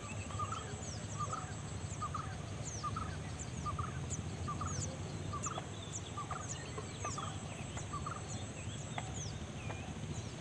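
Birds calling: a short call repeated about twice a second, with thin high chirps above it, over a steady low rumble.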